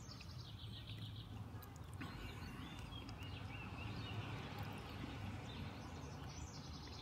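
Birds chirping faintly over steady outdoor background noise, with a run of warbling calls about halfway through.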